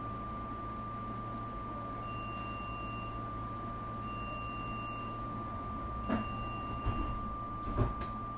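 A stationary SEPTA Regional Rail electric train gives off a steady high electrical whine over a low hum. Three short, higher beeps sound about two seconds apart, and a few knocks follow near the end.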